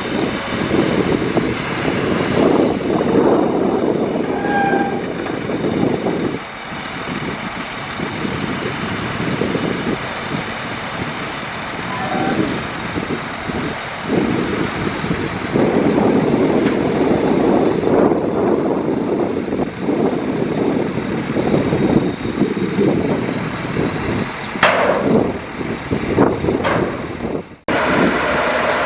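Heavy diesel earthmoving machinery, a bulldozer and dump truck, running and working under load with steady rattling and clanking. The sound breaks off and changes abruptly near the end.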